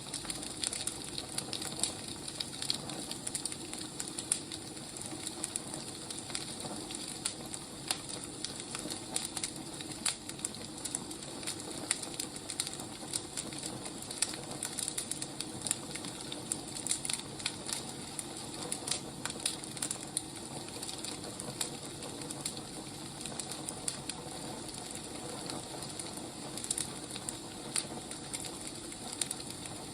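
Wood fire crackling, a steady hiss with frequent small, irregular pops.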